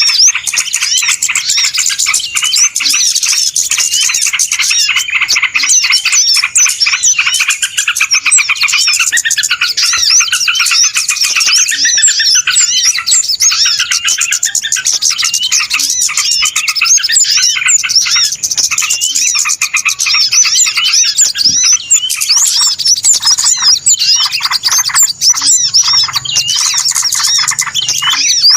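A dense, noisy chorus of many small birds chirping and twittering at once, with rapid overlapping calls and no pauses: a bird-lure recording of the kind played to draw small birds in.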